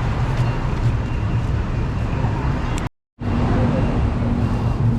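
City street traffic noise: a steady rumble of passing vehicles, cut by a short complete dropout to silence about three seconds in, after which a low steady hum joins the traffic.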